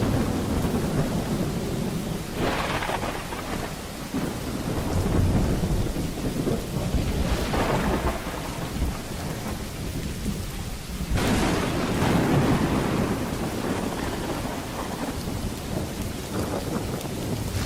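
Steady rain with rolling thunder. Rumbles swell a couple of seconds in and again around seven seconds, and a sharper thunderclap breaks in about eleven seconds in and rumbles on.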